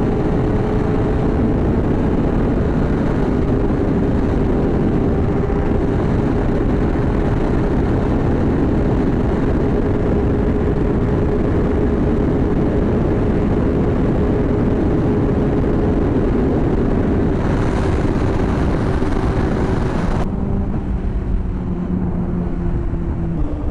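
Sport motorcycle engine running at a steady cruising pitch, with heavy wind rush over the microphone. About twenty seconds in the sound changes abruptly: the wind hiss drops and the engine note settles lower.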